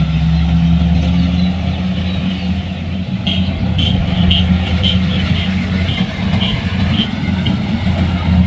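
Kubota DC-105X rice combine harvester's diesel engine running steadily under load with a deep, constant drone. From about three seconds in, a series of short high beeps sounds for a few seconds, about two a second.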